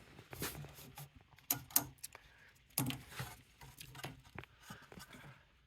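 Scattered light clicks and rattles of small wiring-harness connectors and sensors being handled and moved about.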